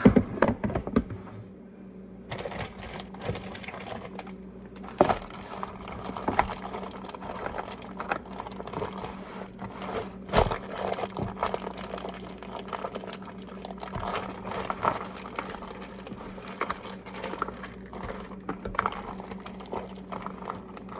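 Plastic food bag and container being handled: irregular crinkling, clicks and light knocks, over a steady low hum.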